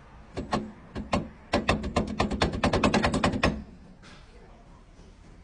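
A series of sharp knocks, a few spaced out at first and then a fast run of several a second, stopping suddenly about three and a half seconds in.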